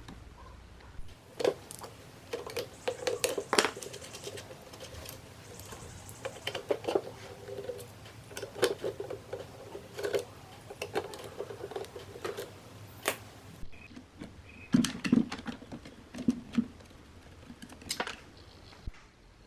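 Irregular clicks, taps and light scraping from hand work on small parts, with a few sharper knocks scattered through.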